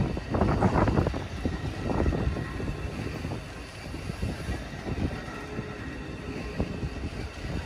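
A passing train, Amtrak's new Acela trainset hauled by diesel locomotives, rumbling with wheels clattering over the rails, the clatter easing to a quieter rumble about three seconds in.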